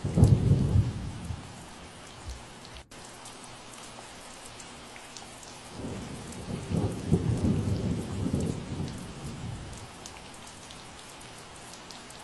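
Steady rain falling, with scattered drops striking close by. A low rumble of thunder breaks out right at the start and fades within a couple of seconds, and a longer, rolling rumble swells from about six seconds in and dies away by about ten.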